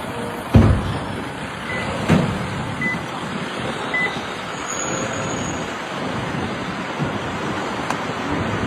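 A road vehicle running, with two sharp knocks about a second and a half apart and three short high beeps about a second apart.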